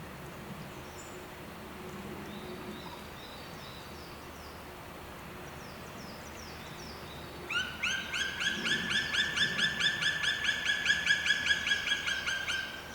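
A bird giving a rapid trill of about six notes a second. It starts about halfway in, grows louder over some five seconds and stops just before the end. Fainter high bird chirps come before it over a steady background hiss.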